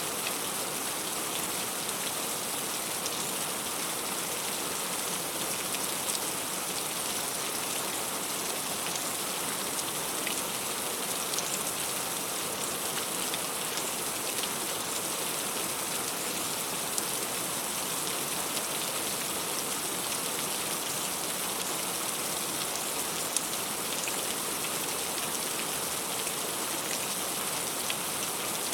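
Heavy rain falling steadily, with scattered sharper taps of single drops.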